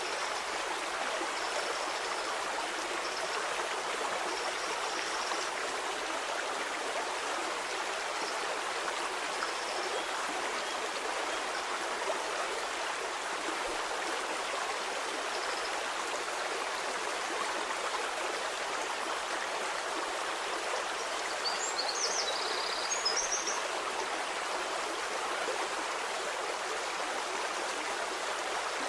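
Stream water flowing steadily over rocks, an even rushing and babbling. A few faint high chirps come through, mostly about three-quarters of the way through.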